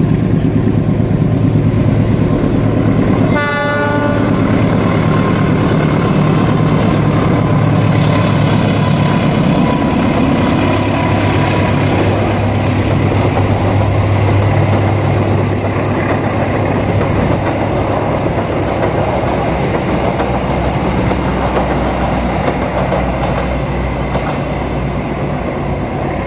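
Diesel-hauled Argo Parahyangan passenger train passing on the line. A steady engine drone runs under the clatter of wheels over the rails, and a short horn blast sounds about three and a half seconds in.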